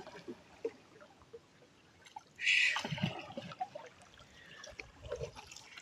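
Water trickling and splashing against a canoe while a fishing net is handled, with one louder, short splash about two and a half seconds in.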